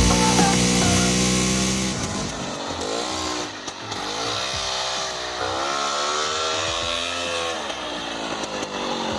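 Scorpion snowmobile engine running under way. Its pitch holds steady at first, then rises and falls in several long swells as it is throttled up and down.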